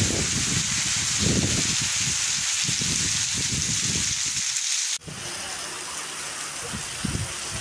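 Heavy rain pouring down, a steady loud hiss with gusty low rumbles of wind on the microphone. About five seconds in it cuts abruptly to quieter, steadier rain falling on wet ground.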